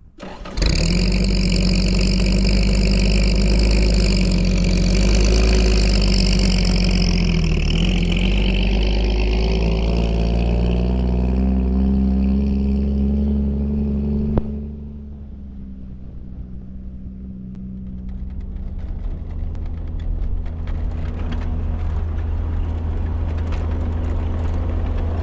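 Toyota Dyna ramp truck's engine running under load as the truck is driven, its pitch rising and falling with the revs over a high rushing noise. About 14 seconds in the sound drops suddenly to a quieter, lower steady engine drone that slowly grows louder.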